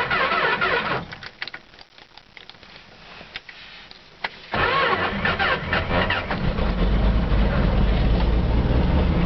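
Dodge D150 pickup being cold-started: the starter cranks and stops about a second in, a few clicks during a short pause, then it cranks again at about four and a half seconds and the engine catches a couple of seconds later and keeps running.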